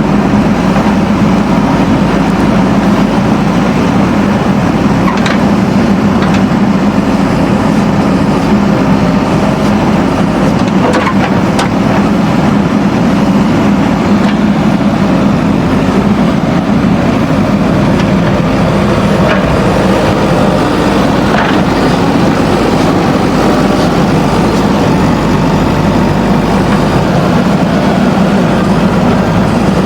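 Backhoe loader's diesel engine running steadily under work, with a few faint knocks heard over it.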